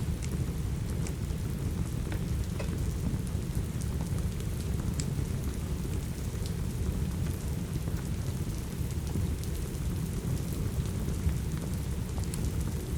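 Steady rain over a deep, even low rumble, with scattered small sharp crackles from a wood fire in a fireplace.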